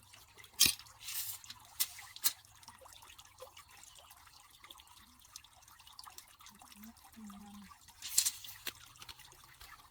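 Scattered sharp taps, with two short hissing rushes, one about a second in and one near the end.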